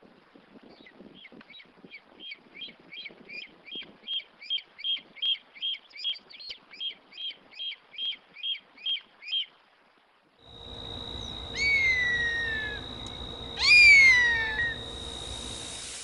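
Bird calls: a rapid series of repeated notes, about three a second, growing louder and then fading. After a pause, two loud descending screams follow.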